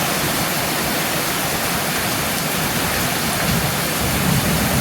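Heavy rain pouring down steadily, with a low rumble swelling slightly near the end.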